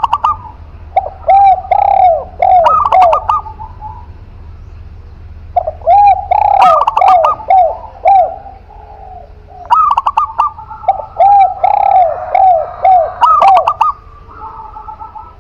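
A spotted dove (tekukur) and a zebra dove (perkutut) cooing in overlapping phrases, lower and higher repeated arched notes, in three bouts with short pauses between.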